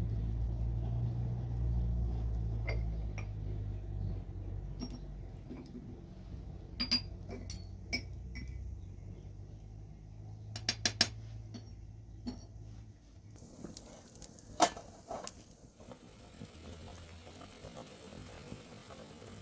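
Dishes and utensils clinking and knocking, a dozen or so separate light strikes with a quick cluster of three or four about halfway through, over a low rumble that fades away in the first half.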